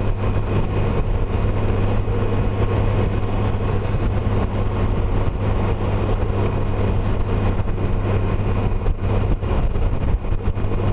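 2012 Honda Gold Wing's flat-six engine running steadily at road speed, a low even hum under wind noise rushing over the microphone.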